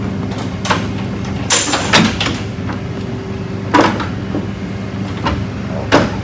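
Sharp metal clanks and knocks at irregular intervals, about six of them, over a steady engine-like hum.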